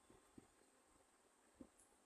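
Near silence broken by two faint, short chewing or mouth sounds from someone eating.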